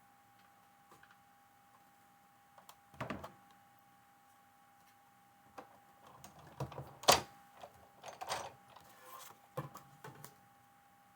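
Scattered small taps, clicks and rustles of hands working with rubber stamps and paper on a craft table, the sharpest tap about seven seconds in.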